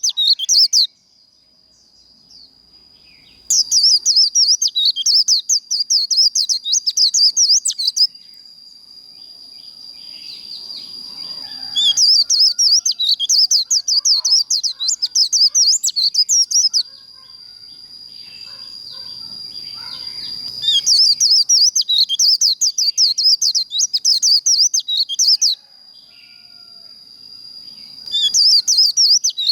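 White-eye singing its rapid twittering 'líu' song in four bouts of about four to five seconds, with pauses of a few seconds between them. A steady thin high tone carries on through the pauses.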